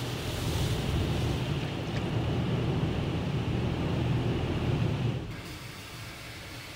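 High-pressure water jets of a D&S 5000 automatic car wash spraying against a van, heard from inside the van as a steady rushing noise that drops off sharply about five seconds in.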